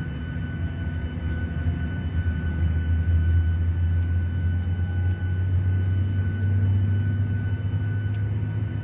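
Airliner cabin noise: a steady, loud low drone from the jet engines and airflow, with a faint steady high whine above it. It grows slightly louder over the first few seconds.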